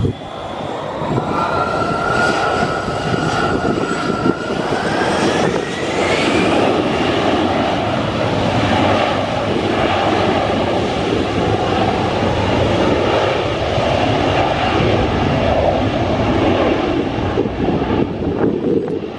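Airliner's engines spooling up, a whine rising steadily in pitch over the first six seconds or so, then a loud, steady engine roar.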